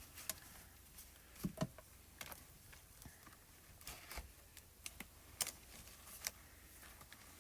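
Plastic marker pens clicking and tapping against each other as they are picked through and handled, in faint, irregular light clicks.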